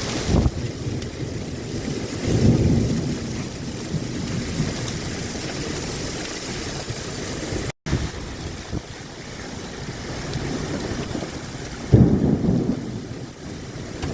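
Heavy rain with wind buffeting the microphone, broken by low rumbling surges about two seconds in and again near the end. The sound drops out for an instant near the middle.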